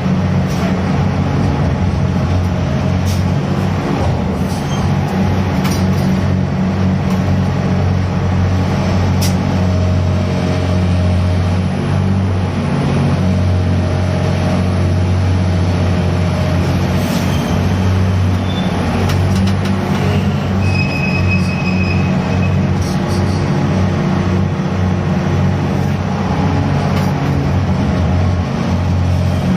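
Heavy diesel machinery of a grab-crane sand and gravel carrier running steadily during grab cargo handling: a deep, even engine hum with a few faint clicks and squeaks on top.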